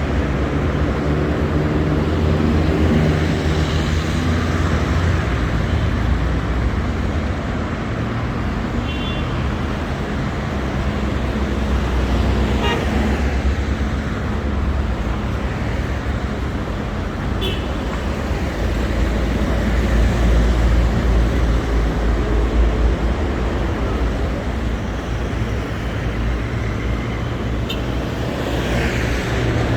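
City street traffic on a wet road: engines of passing cars and buses rumbling steadily under a constant hiss, with a few brief high tones, the first about nine seconds in.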